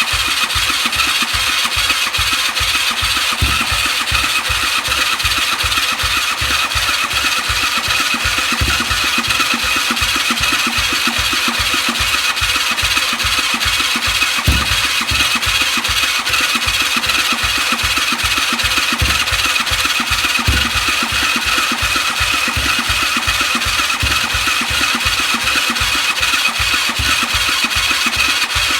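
2006 Suzuki LTR450's 450 cc single-cylinder engine being cranked over steadily by its electric starter, turning over in a fast even rhythm without catching. The quad won't start, even though it has good spark and freshly cleaned injectors.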